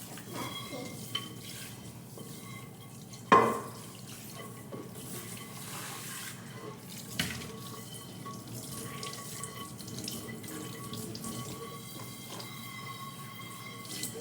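Water running from a tap into a sink, steady, with a sharp knock about three seconds in and a lighter one about seven seconds in.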